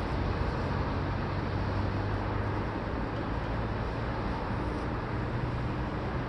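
Steady street traffic noise with a low engine hum underneath.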